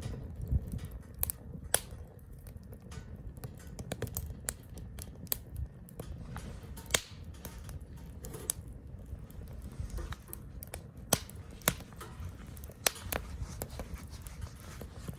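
Wood fire burning in a small tabletop fire grill, crackling with irregular sharp pops over a low steady rumble.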